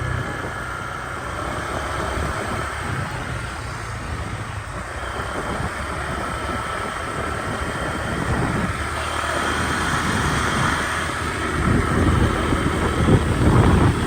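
A vehicle engine running steadily on the move, with wind rushing over the microphone; the sound grows a little louder near the end.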